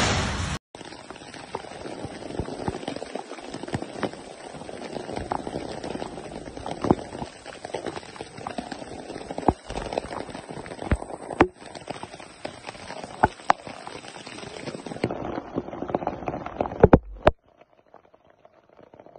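Heavy rain falling, a steady hiss broken by scattered sharp taps of large drops striking close by. It opens with a moment of traffic swishing on a wet road, cut off abruptly, and near the end the sound drops suddenly to a fainter patter.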